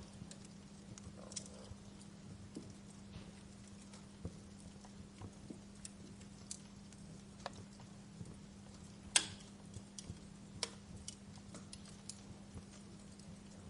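Wood fire crackling in a fireplace: irregular sharp pops and snaps over a faint hiss, the loudest pop about nine seconds in. A steady low hum runs underneath.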